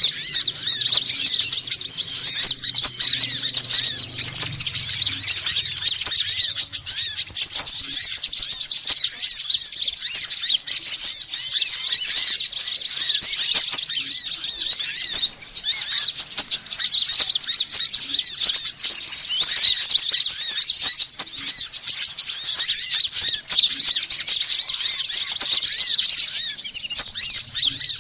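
Dense, noisy chorus of many small birds chirping and twittering at once, high-pitched and unbroken apart from a brief dip about halfway through. It is a bird-trapping lure call meant to draw small birds in.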